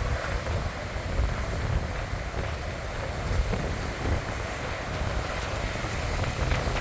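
Wind buffeting the microphone in gusts over the steady wash of sea waves on the shore.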